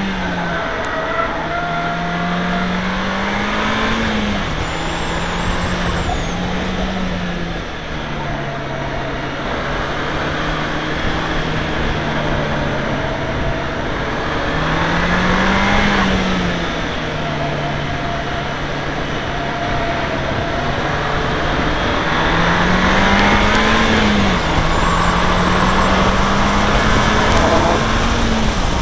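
Seat Leon Cupra R engine under hard track driving, heard onboard over steady road and wind noise. The engine note climbs in pitch three times, about two, fifteen and twenty-three seconds in, and drops back each time as the car lifts or shifts.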